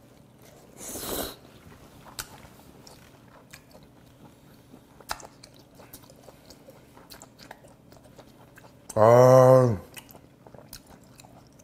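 Close-miked chewing of raw filefish sashimi, with faint soft clicks and crunches from the fine bones sliced into the flesh. A short breathy sound comes about a second in, and a long appreciative "ah" near the end.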